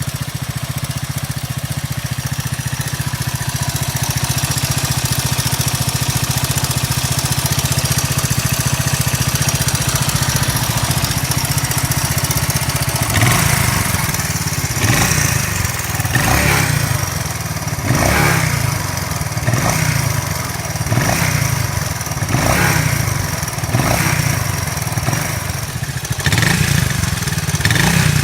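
Honda XL200R single-cylinder four-stroke motorcycle engine idling steadily, then from about halfway being blipped on the throttle in short revs roughly every one and a half seconds. The engine is freshly rebuilt with new valve stem seals and piston rings and a honed cylinder to cure heavy white smoke.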